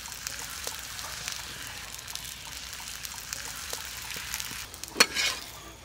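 Oil sizzling as a paratha fries on a hot iron tawa: a steady hiss with tiny crackles. About five seconds in there is a single sharp clatter, the loudest sound here.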